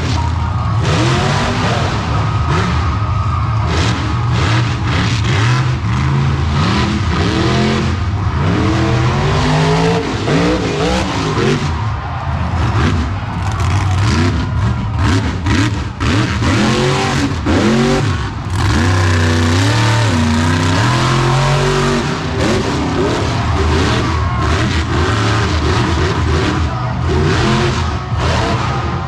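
Monster truck engine running hard, its pitch rising and falling again and again as the throttle is worked.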